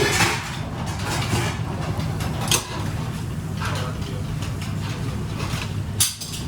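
Steady low machine hum with three sharp clinks of kitchenware: one at the start, one about two and a half seconds in, and one near the end.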